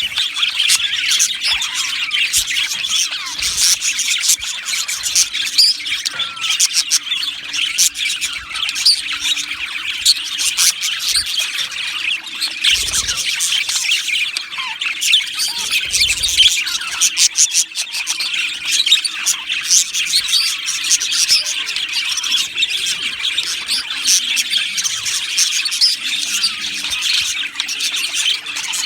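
A flock of budgerigars chattering continuously, many birds at once overlapping in quick, high chirps, squawks and warbles.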